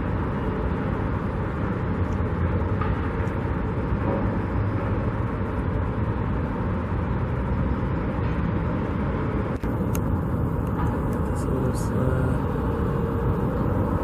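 Steady road traffic noise, a continuous rumble from passing cars and trucks, with a brief break about ten seconds in.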